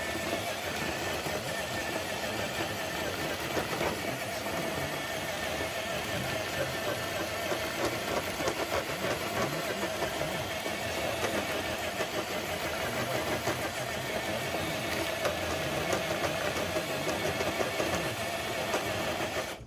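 Traxxas TRX4 High Trail RC crawler's electric motor and geared drivetrain whining steadily under load as it drags a dead-weight pulling sled. It stops abruptly at the end.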